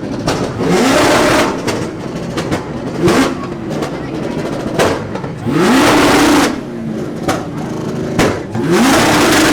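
Car engines revved hard to full throttle in a rev battle, about four times: each rev climbs in pitch and bursts into a loud blare, with the loudest around the middle and near the end.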